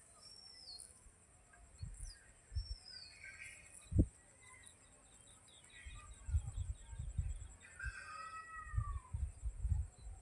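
Birds calling in open farmland: short downward-sliding whistles and chirps, with a quick ticking trill about four seconds in and a lower falling whistle near eight seconds, over a steady high hiss. Low thumps on the microphone come through, one sharp one about four seconds in and a cluster in the second half.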